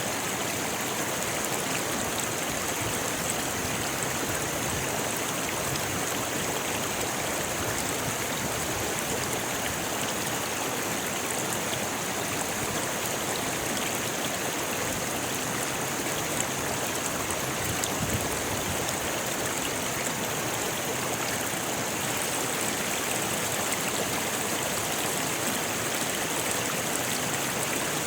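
River water rushing steadily over rocks, an even, continuous rush with faint splashes.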